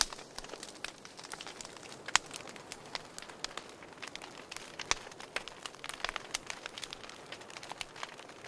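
Wood fire burning in a fireplace: a soft steady hiss with frequent irregular crackles and sharp pops, two louder snaps about two and five seconds in.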